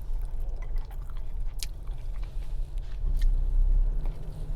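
A person chewing food close to the microphone, with a few sharp clicks along the way, over a steady low hum.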